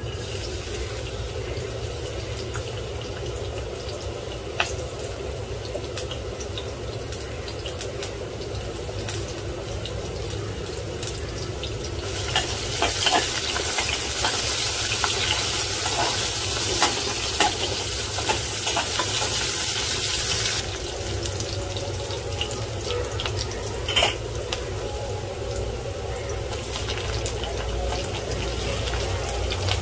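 Garlic and onion slices sizzling in hot oil in a steel pan, with a slotted metal spatula scraping and clicking as they are stirred. The sizzle grows louder for about eight seconds midway, and there is a sharp knock about six seconds from the end.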